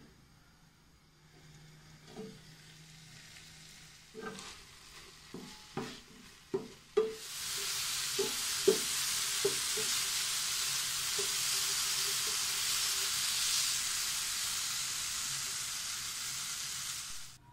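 Chicken cubes sizzling in a nonstick frying pan as the cooking water boils off, with a spatula stirring and knocking against the pan. A few light knocks come first; the loud, even sizzle starts about seven seconds in and cuts off suddenly near the end.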